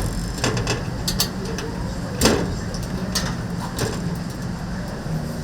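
Several sharp knocks and clacks, the loudest about two seconds in, over a steady low hum.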